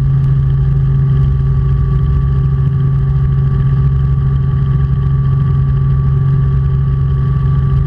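Robinson R44 Clipper II helicopter's Lycoming six-cylinder piston engine and rotors running steadily at flight power just after lift-off, a constant low drone with a few steady higher tones.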